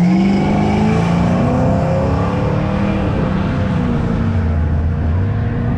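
A car engine revving up, its pitch climbing over the first couple of seconds, then settling to a steadier, lower note.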